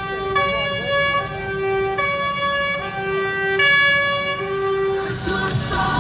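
A vehicle's siren or musical horn sounding a run of steady notes, switching pitch about every second. Loud music takes over near the end.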